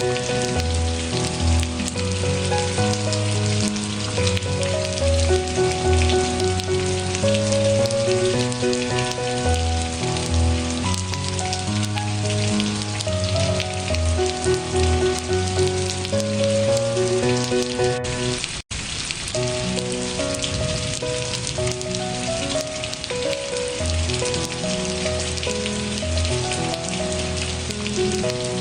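Steady rain hiss under soft instrumental music, a slow succession of low, held notes. The sound drops out completely for a split second about two-thirds of the way through.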